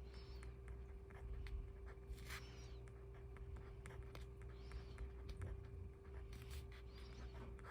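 Faint paper handling: scattered small clicks and brief rustles over a steady low hum.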